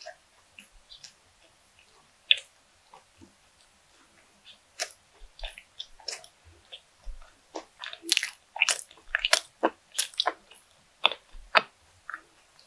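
Close-miked chewing of a fried, breadcrumb-coated croquette bun: soft wet mouth clicks and smacks, sparse at first, then thicker and louder from about halfway through.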